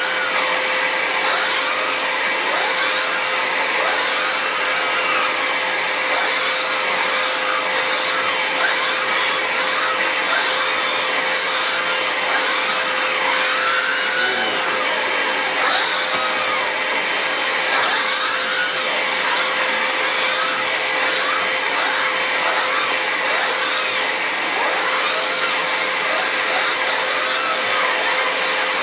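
Vacuum cleaner running steadily while its nozzle is drawn over a cat's fur, with a constant hum and high whistle, and its pitch wavering up and down again and again as the airflow at the nozzle changes.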